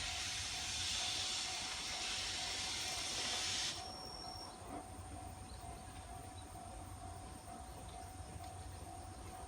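Steam locomotive C57 180 releasing steam in a loud hiss, which cuts off suddenly about four seconds in, leaving a low rumble and a faint steady tone.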